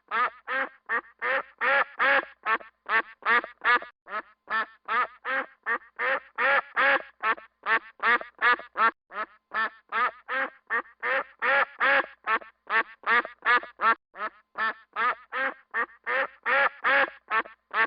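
Duck quacking in a fast, steady run of short quacks, about three a second.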